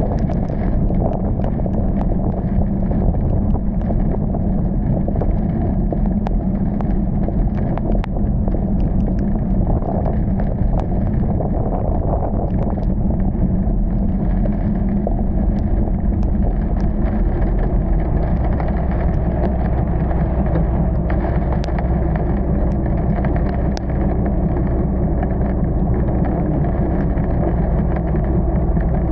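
Car driving in heavy rain, a steady rumble of engine and tyres on wet road, with scattered faint ticks throughout.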